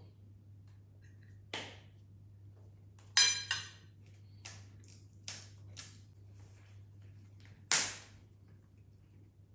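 Dishes, glass and cutlery being handled, clinking and knocking in about seven separate strikes. One a little over three seconds in rings briefly, and the loudest comes near the end. A steady low hum runs underneath.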